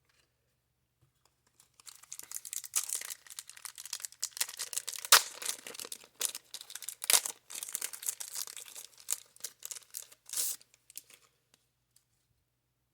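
Crinkling and tearing of a baseball card wax pack's wrapper as it is torn open and peeled off by hand: a rapid run of sharp crackles and rips lasting about nine seconds, with a couple of louder snaps midway.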